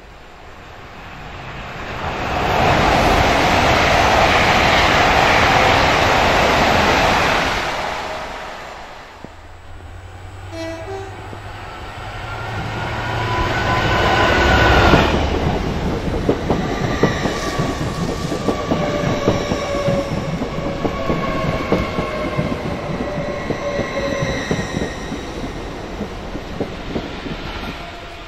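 A Hitachi Azuma passenger train rushes past at speed, loud for about five seconds. Then a GBRf Class 66 diesel locomotive passes close, its engine drone building to a peak, followed by a long rake of engineers' flat wagons clattering rhythmically over the rail joints with steady squealing from the wheels.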